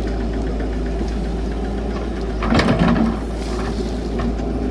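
Cat 312 excavator's diesel engine running steadily, with a louder, harsher surge about two and a half seconds in that lasts around half a second.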